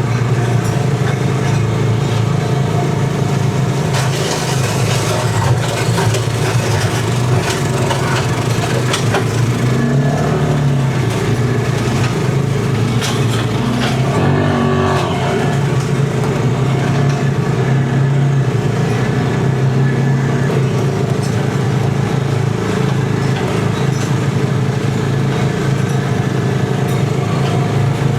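Tow-behind flail mower's Briggs & Stratton gasoline engine running steadily while mowing, mixed with the towing ATV's engine. The pitch dips and recovers briefly twice, around ten and fifteen seconds in, and scattered sharp ticks come through a few seconds in.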